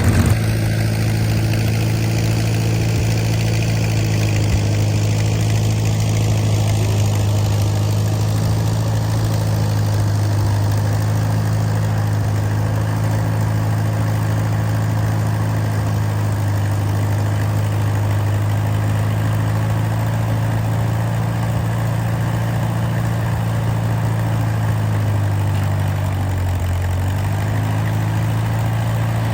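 Allis-Chalmers WD tractor's four-cylinder engine running at a steady speed, its pitch dipping briefly and recovering near the end.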